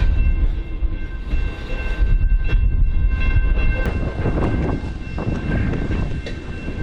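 Freight train led by a Norfolk Southern SD60E diesel locomotive moving on yard track: a heavy low rumble of engine and rolling cars, with a steady high squeal through the first half and a few short clanks.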